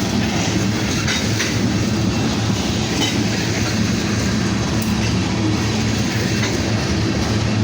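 Long freight train of tank cars and boxcars rolling past at speed. Its wheels on the rails make a steady rumble, with a few sharp clicks scattered through it.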